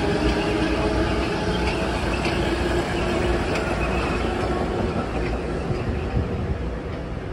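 Metro-North commuter train running past: a steady rumble with a hum that fades out after a few seconds and scattered sharp wheel clicks. The sound eases off near the end as the train draws away.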